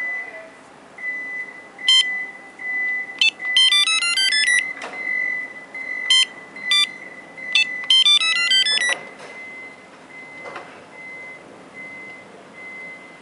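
Electronic beeps and chirps from a VIPER 5902 remote starter and security system. Quick rising chirp tunes come about four and eight seconds in, with single short beeps between them over a steady high tone. The tone turns to faint, evenly spaced beeps for the last few seconds.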